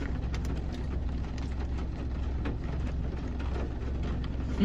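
Steady low hum inside a car cabin, with scattered soft clicks.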